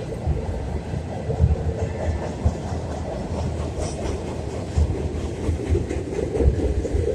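Double-stack container well cars rolling across an elevated steel trestle: a steady low rumble broken by frequent irregular knocks from the wheels.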